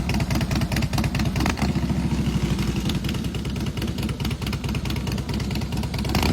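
Harley-Davidson Heritage Softail's V-twin engine running with a steady, rapid exhaust beat.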